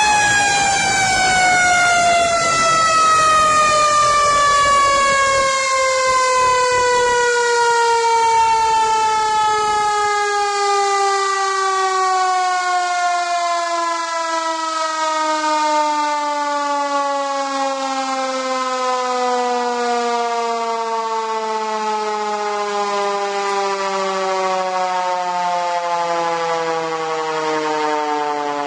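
Fire engine's mechanical siren winding down after being switched off: one long, slowly falling wail that sinks steadily in pitch as the rotor coasts to a stop. A low rumble underneath fades out about a third of the way through.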